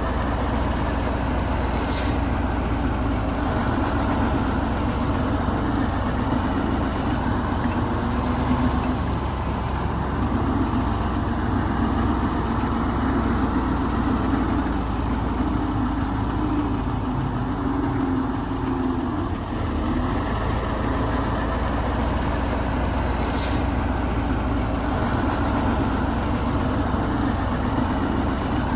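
Heavy diesel engine of earthmoving machinery running steadily under varying load, with two short high hisses, one about two seconds in and one near the end.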